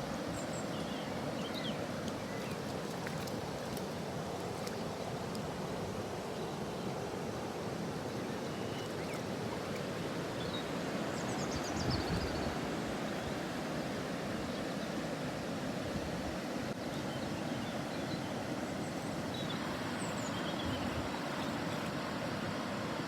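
Steady outdoor rushing noise, with a few faint, short, high chirps now and then.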